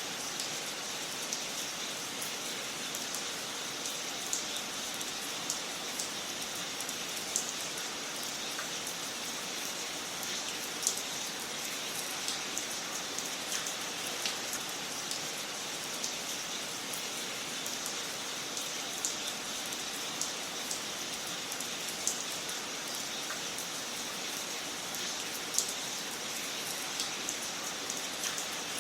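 Wood fire crackling in a fireplace: a steady hiss with irregular small pops and snaps throughout, a few sharper pops standing out.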